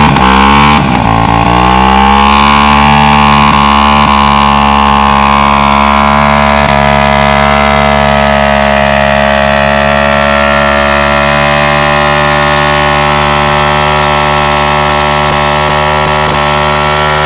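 Simson two-stroke motorcycle engine, its pitch dipping and climbing in the first second or two, then held at steady high revs with a hiss underneath, as in a burnout on wet asphalt.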